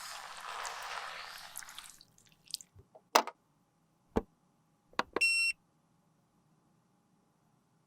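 A hissing rush for about two seconds, then a few sharp clicks, and a short electronic beep about five seconds in.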